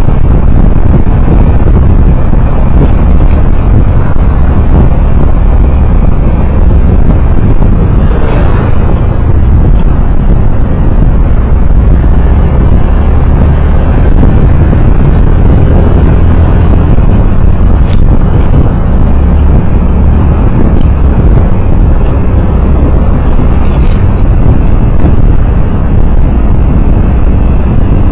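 Steady, loud rumble of road, engine and wind noise picked up by a recorder riding on a moving vehicle in traffic.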